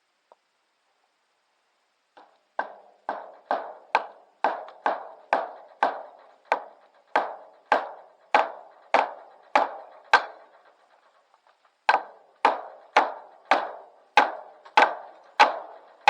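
Repeated hammer blows on wood, about two a second, in two runs with a short pause about ten seconds in.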